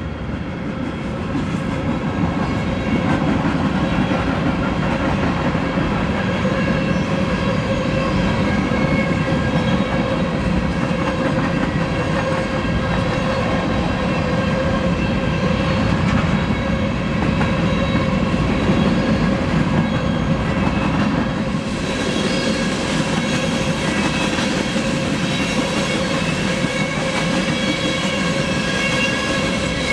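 A train rolling past close by, its wheels clicking over the rail joints. A steady ringing tone sits in the mix. The sound builds over the first few seconds and turns brighter about two-thirds of the way through.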